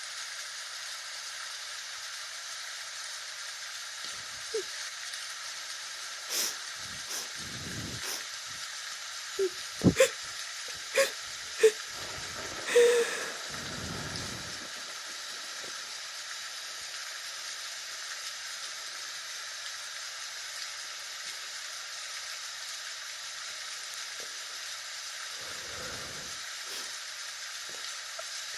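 A steady hiss, with a scattered run of short knocks and clicks from about four to fourteen seconds in and a few more near the end.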